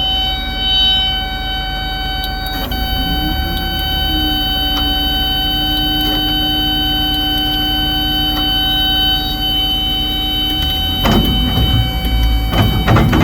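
Caterpillar 320 excavator running, with a steady low hum and a whine of several held tones. The whine bends up and settles about three seconds in. From about eleven seconds in, a louder, rougher working noise starts.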